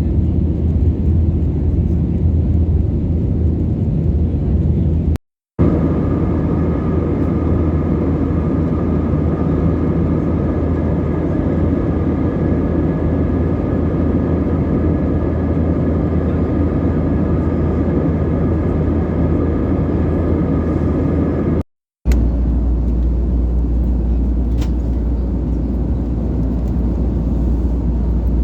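Steady in-flight cabin noise of an Airbus A320-232: the rush of air along the fuselage and the hum of its IAE V2500 engines. It is heard as three clips joined by two brief cuts; the middle clip carries faint steady whining tones, and the last has a deeper hum.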